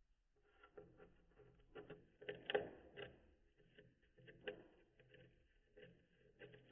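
Cockatiel gnawing on wood with its beak: a faint, irregular run of small crunches and clicks, the loudest about two and a half seconds in.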